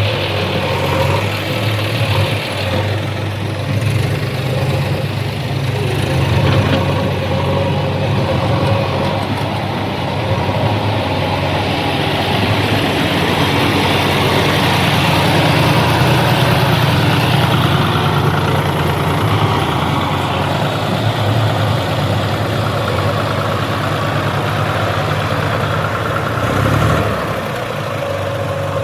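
Diesel engine of a heavy farm or construction machine running steadily, growing a little louder midway and dipping briefly near the end.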